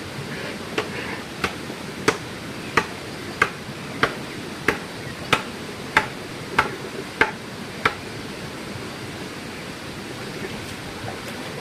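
A tool striking repeatedly, about twelve evenly spaced blows at roughly one and a half a second, stopping about eight seconds in, over a steady background hiss.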